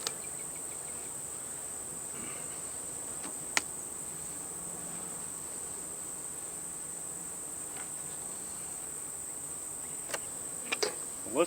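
Steady high-pitched chorus of insects, with a faint low hum of bees in the middle. A single sharp click about three and a half seconds in and a few softer clicks near the end.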